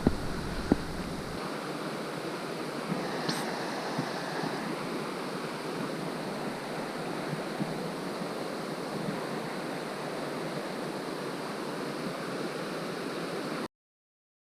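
Steady rush of flowing river water, with a few faint clicks in the first second; the sound cuts off abruptly near the end.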